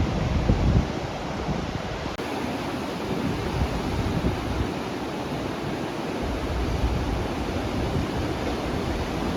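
Ocean surf washing onto a beach in a steady rush, with wind buffeting the microphone in low rumbling gusts, strongest about half a second in.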